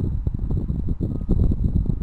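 Wind buffeting the microphone: an uneven, fluttering low rumble.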